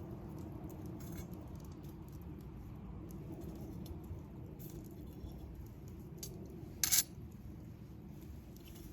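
Wood campfire burning: a steady low rush with scattered small crackles and one louder pop about seven seconds in.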